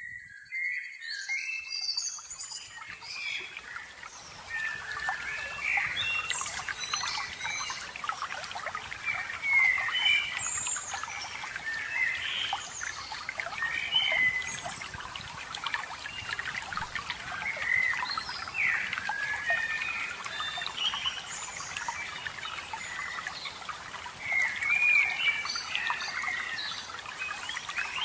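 Several songbirds chirping and singing in many short, sweeping phrases over a steady trickle of running water.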